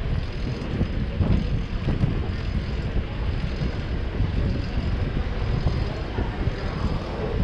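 City traffic and wind rumbling on the microphone of a moving bicycle, a steady low rumble with no distinct events.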